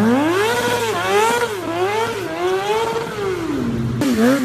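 Motorcycle engine revving repeatedly, its pitch climbing and dropping several times in quick succession as the throttle is blipped.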